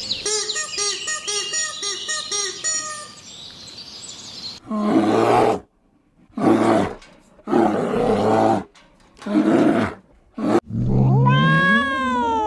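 A string of animal calls: a quick run of repeated high chirps, then four loud, rough calls of about a second each with short silences between, then near the end a long call that rises and then falls in pitch.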